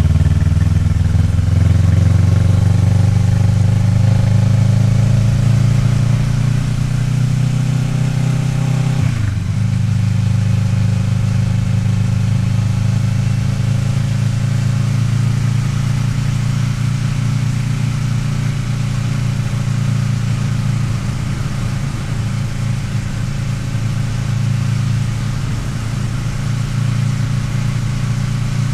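Kawasaki Ninja 650R's parallel-twin engine pulling in gear, its pitch rising steadily for about nine seconds, then dropping sharply at an upshift and running steady after.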